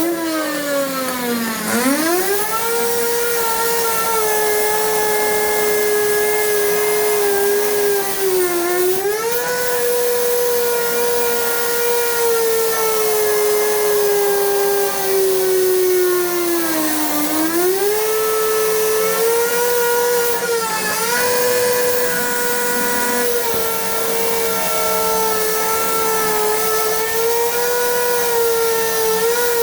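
Power cutting saw motor running at high speed with a steady whine. Its pitch sags and recovers three times as the blade bogs under load in the cut.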